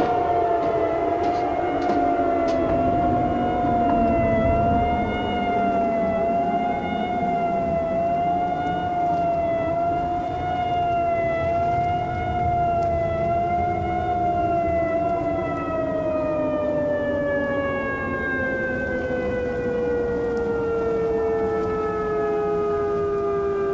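Outdoor tornado warning siren sounding a steady tone that wavers gently in pitch. From about two-thirds of the way through it slowly winds down, falling in pitch.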